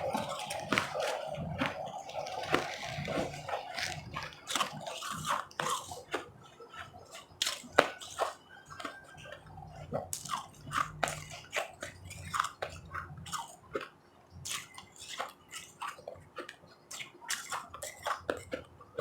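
Ice being bitten and chewed close to the microphone: irregular sharp crunches and crackles as frozen fruit-flavoured ice and powdery blended ice break between the teeth.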